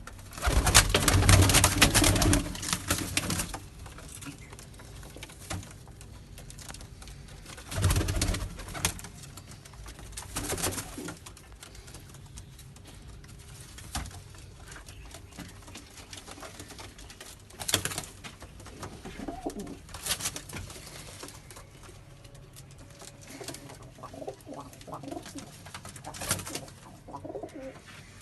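Domestic pigeons cooing in a small enclosed space, with a loud rustling burst in the first few seconds and shorter bursts of noise several more times.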